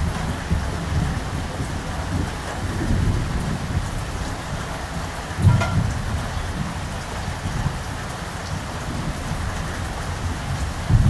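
Steady rain falling, with low rolling thunder that swells and fades, and a louder rumble about five and a half seconds in.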